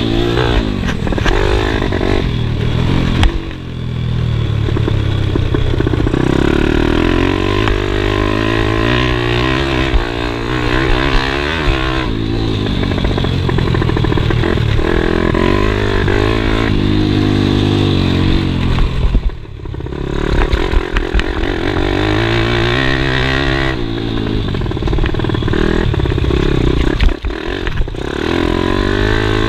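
Pit bike engine revving up and down as it rides a motocross track, the pitch rising and falling with the throttle. The throttle is briefly shut twice, about three seconds in and again near the middle, with some rattling from the bike.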